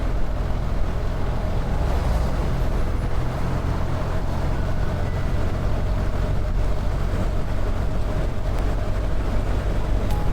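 BMW R1300 GS motorcycle's 1300 cc boxer twin running steadily under way, heard as an even, unbroken low rumble.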